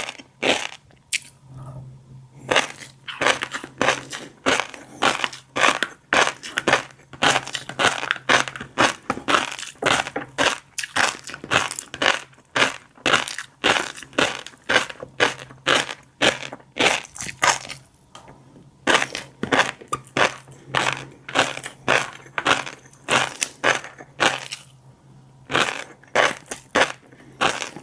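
Close-miked chewing of fish roe: rapid crackling pops as the roe pearls burst, going on steadily with a few brief pauses. A faint steady low hum sits underneath.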